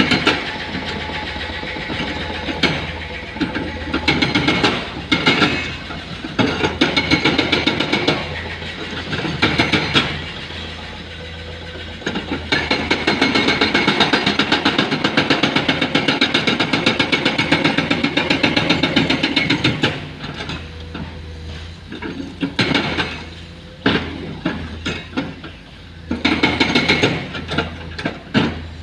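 Hydraulic breaker hammer on a Komatsu excavator pounding rock in rapid blows, coming in repeated bursts with one long run of several seconds in the middle, over the steady running of the excavator's engine.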